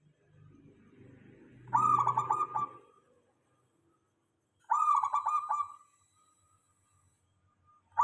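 Zebra dove (perkutut) cooing: two short phrases of quick, rolling coo notes about three seconds apart, with a low rumble under the first.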